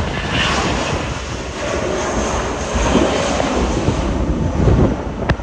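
Airliner engine noise mixed with gusty wind buffeting the microphone, swelling twice in the second half, with a sharp click near the end.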